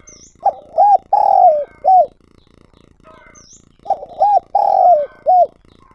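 Spotted dove cooing its territorial song, two phrases of four coos each, about a second and a half apart; each phrase has short hooked notes around a longer drawn-out middle note. Faint chirps of small birds sound behind it.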